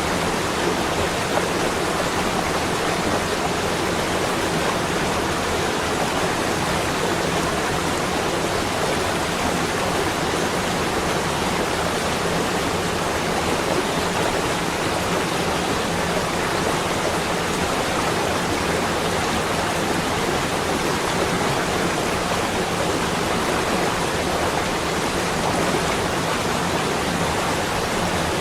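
Steady, even rushing noise with no separate events or changes: a continuous ambient winter nature sound, given as the sound of snow.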